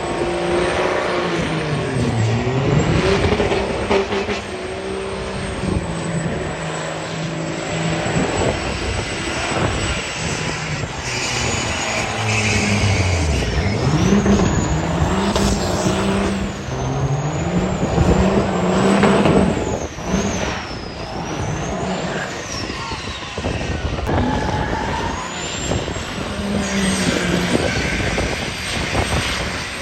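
High-horsepower truck engines revving hard, their pitch climbing and dropping several times, with a high whine running over them.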